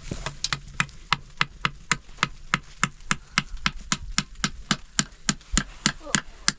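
Knife chopping food on a board in quick, even strokes, about three or four a second.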